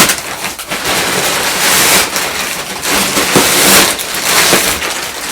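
Plastic packaging crinkling and rustling as it is handled and pulled open, a dense crackle broken by many sharp crinkles.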